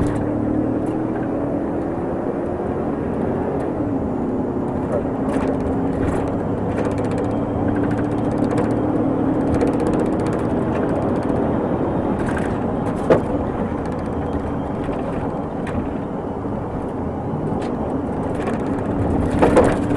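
Car engine and road noise while driving, the engine note drifting slowly up and down, with scattered light clicks and a single sharp knock about two-thirds of the way through.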